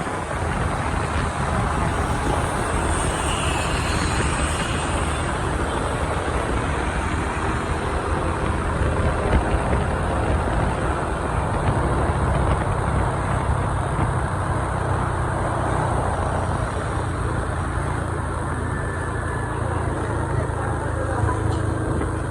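Motorbike engine running steadily with road and traffic noise around it during a ride through city streets.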